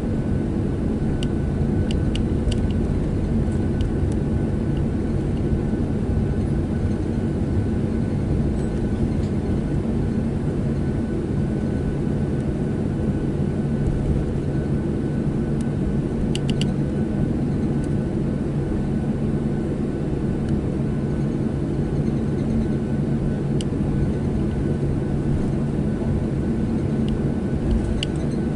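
Inside the cabin of a Boeing 737-700: its CFM56-7B engines running at low power, a steady drone with a few level hums. A few light clicks from the cabin now and then.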